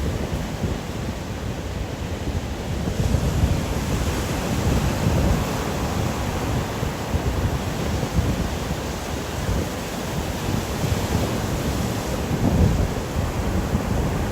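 Strong wind blowing in swelling gusts over a steady hiss of rain.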